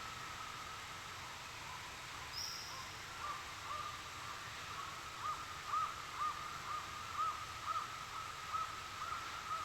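Rainforest ambience: a bird calls in a series of short, arching notes, about two a second, beginning a few seconds in. Beneath it run a steady high tone and a faint background hiss.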